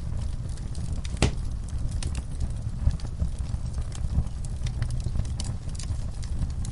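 Wood logs burning in a fireplace: a steady low rumble of flames under scattered sharp crackles and pops, the loudest pop about a second in.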